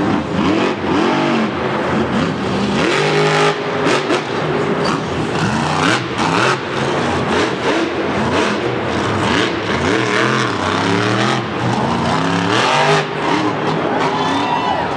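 Monster truck engines revving hard again and again, the pitch sweeping up and falling back many times, with sharp cracks scattered through.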